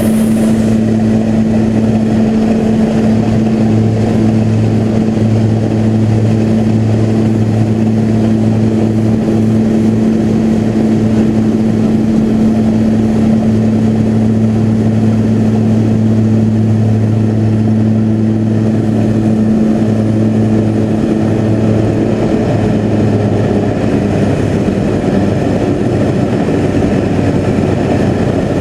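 Floatplane's piston engine and propeller running steadily at high power during a takeoff from the water, a loud constant hum with an unchanging low pitch.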